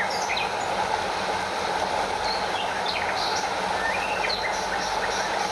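Stream water rushing steadily over a small waterfall, with birds chirping briefly now and then above it.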